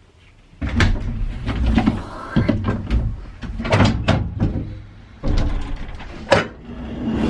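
Irregular clunks and knocks with rustling between them, as parts and covers are handled around an old pickup truck; it starts about half a second in.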